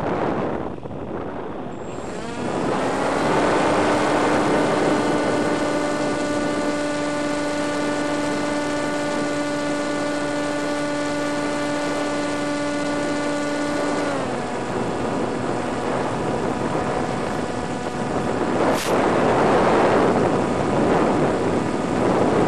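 Electric motor and propeller of a Multiplex EasyStar RC plane with wind rushing over the microphone. The motor spins up about two seconds in, holds a steady hum, and is throttled back about fourteen seconds in, leaving mostly wind noise that grows louder near the end. There is a single short click late on.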